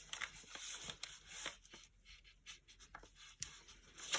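Faint rustling and light creasing of a sheet of origami paper being folded by hand, with scattered small paper ticks.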